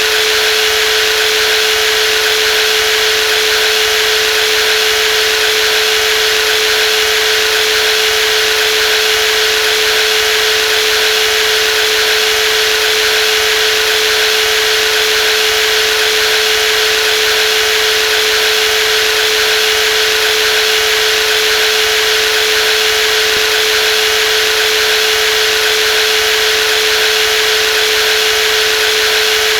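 Brushless jigsaw running steadily at constant speed, a continuous even whine with one strong steady pitch and no change in speed.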